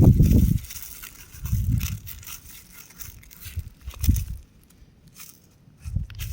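Rock crumbling apart: gritty crackles with low crunching thumps, loudest in the first half second, then in smaller bursts.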